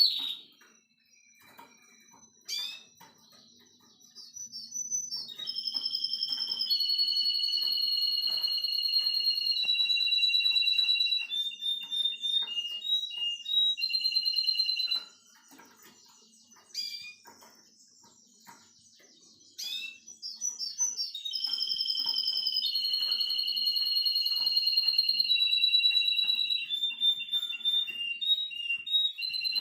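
Russian canary singing: long held whistled notes alternating with fast trills and rolls, in two song phrases with a pause of a few seconds between them. A few short sharp chirps or clicks fall in the pause and near the start.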